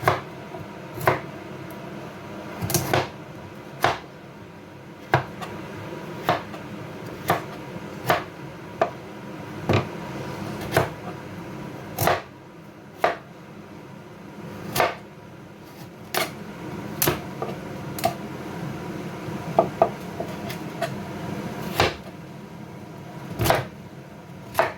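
Knife chopping through pumpkin onto a cutting board: sharp, single knocks about once a second, somewhat irregular in spacing.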